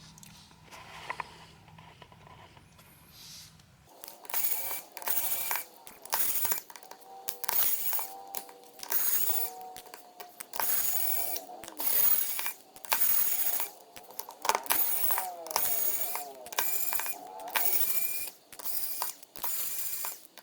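Small screwdriver backing the screws out of a smartphone's midframe, in short ratcheting, whirring bursts about once a second from about four seconds in.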